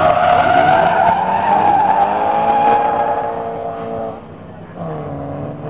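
A car drifting: the tyres squeal loudly at a few steady pitches over the running engine. The squeal fades about four seconds in and a shorter one follows near the end.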